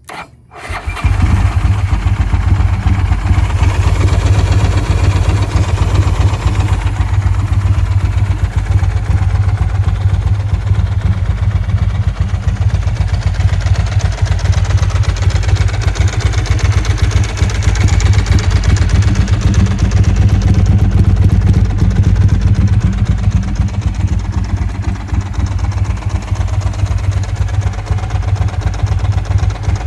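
Ducati 916's 90-degree V-twin engine firing up from cold within the first second, then idling steadily.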